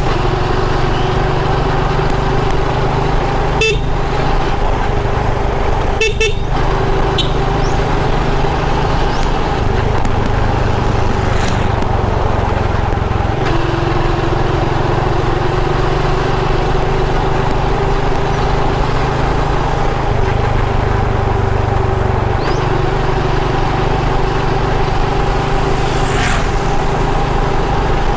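Motorbike running at a steady cruise on the highway, its engine hum holding a near-constant pitch over rushing wind noise, with a couple of brief knocks about four and six seconds in.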